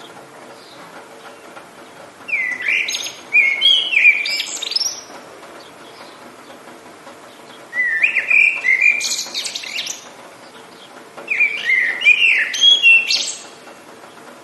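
A songbird singing three phrases of quick, sweeping chirped notes, each two to three seconds long with short pauses between, over a steady faint hiss of rain.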